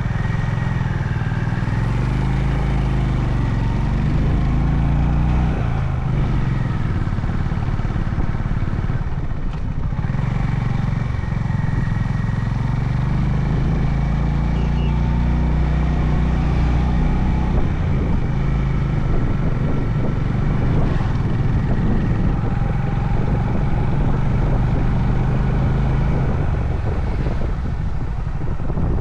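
Honda CB350 H'ness single-cylinder engine running on the move, its pitch rising and falling with the throttle and a brief dip about ten seconds in, over a steady rush of road and wind noise.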